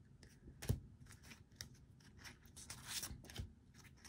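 Paper and sticker sheets handled on a desk: light rustles and small taps, with a sharper tap about three-quarters of a second in and a few more around three seconds in.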